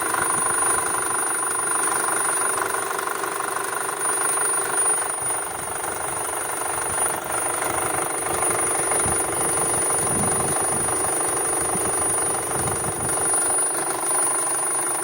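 VW Touran 2.0 FSI petrol engine running steadily, with a thin, constant high-pitched whistle over the engine noise: the unexplained beep or whistle the owner is pointing out.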